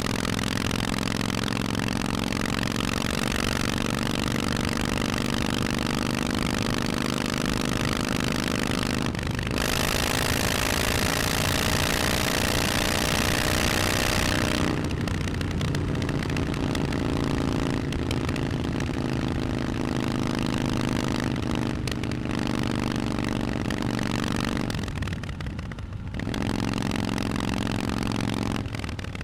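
Harley-Davidson Forty-Eight's air-cooled 1200 cc V-twin through Vance & Hines exhausts, heard while riding. It runs at a steady cruise, then pulls for about five seconds with its pitch slowly rising under a loud rushing hiss. After that it drops back to a lower, steady note, with short dips as the throttle eases near the end.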